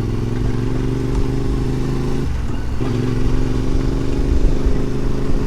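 Adventure motorcycle engine running steadily while riding, with a short dip a little over two seconds in before it picks up again.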